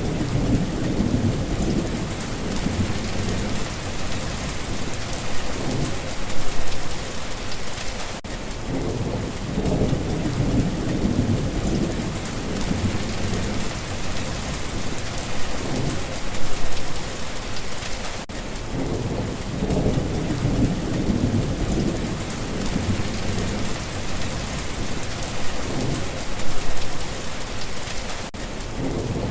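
Steady rain with low rumbles of thunder that come back about every ten seconds.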